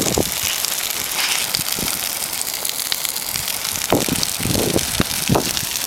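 A signal fire of burning tyres and waste paper crackling and hissing with dense fine pops, with a few low thumps about four to five seconds in.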